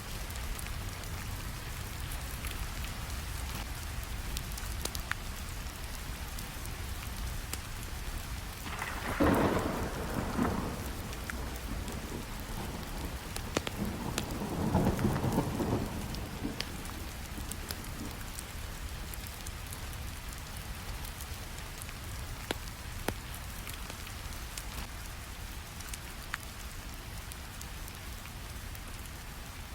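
Steady rainfall with scattered small crackles from a wood fire. Two rolls of thunder swell and fade, one about nine seconds in and another about fourteen seconds in.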